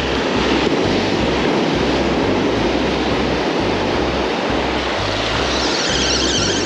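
Steady rush of ocean surf on a rocky shore, with background music and its repeating bass line underneath; the music turns brighter near the end.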